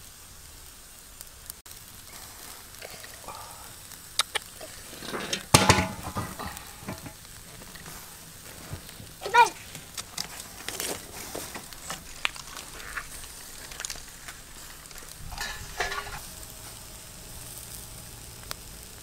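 Food sizzling and frying in a hot pan, with small crackles throughout and a few louder short clatters about five, nine and sixteen seconds in.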